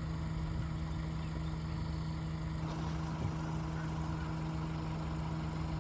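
Engine idling: a steady low hum with no sudden sounds.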